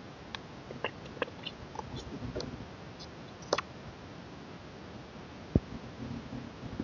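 K-pop album packaging and printed inclusions being handled: scattered light clicks and taps of card and plastic, with one heavier thump about five and a half seconds in as something is set down.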